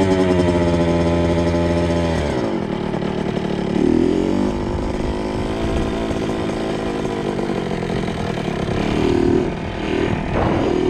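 2002 Kawasaki KX 65's small two-stroke single-cylinder engine, held at high revs and then dropping sharply off the throttle about two seconds in. It carries on at lower revs with brief rises in pitch around four and nine seconds in.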